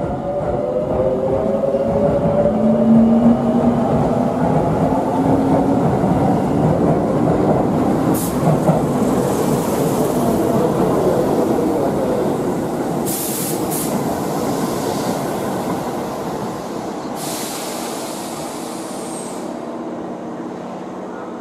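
Electric train running past on the Tobu Railway: rumble of wheels on rail swelling over the first few seconds and slowly fading, with a pitched motor whine sliding in pitch and a few short hisses.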